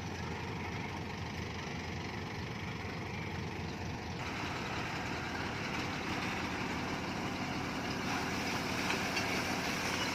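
Heavy diesel engine of earthmoving machinery running steadily, growing a little louder and harsher about four seconds in.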